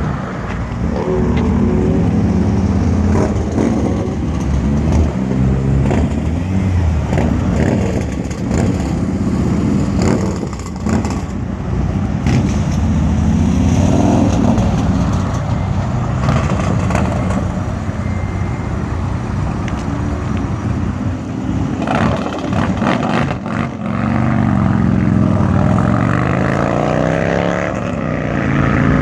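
Car engines accelerating and passing one after another, their pitch rising and falling through the gears, with a few sharp clicks or knocks.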